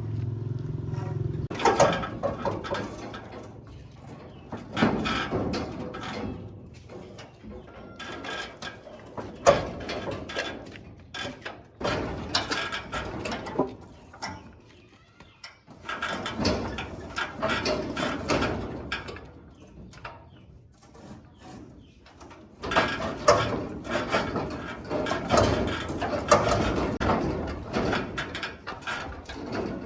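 Irregular knocking and clattering, coming in bunches of sharp hits with quieter gaps between them.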